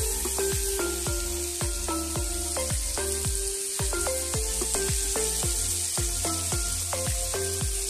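Potatoes frying in oil in a steel wok, with a steady sizzle, under background music that has a steady beat and bass.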